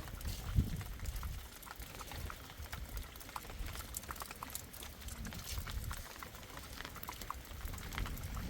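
Light rain pattering in small, irregular drops over a steady low rumble.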